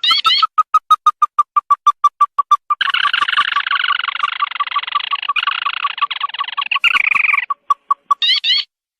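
Recorded crake lure call played for bird trapping: a fast, even train of short notes, about eight a second, that swells into a dense chattering stretch in the middle, with rising upslurred notes at the start and again near the end.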